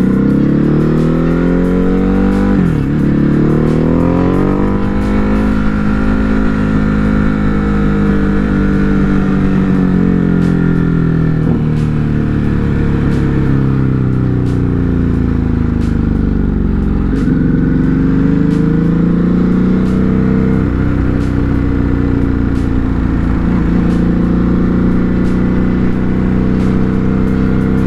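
Ducati Hypermotard 950 RVE's 937 cc L-twin engine pulling through the gears while riding. The pitch dips at a shift about three seconds in and climbs, holds, falls away around the middle, then dips at another shift and climbs again before settling.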